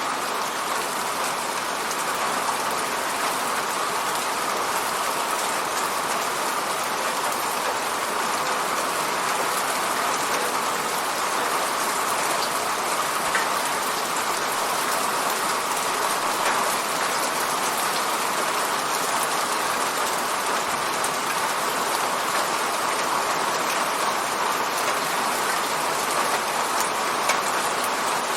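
Steady rain falling on an apartment window, an even hiss with faint scattered drop ticks.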